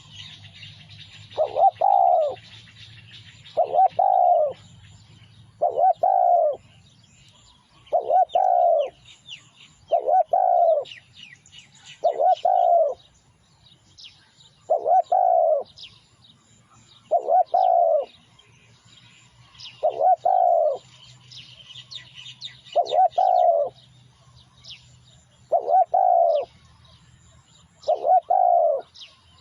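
Spotted dove cooing its song phrase over and over, about one phrase every two seconds, each lasting under a second. Faint chirps of small birds sound between the phrases.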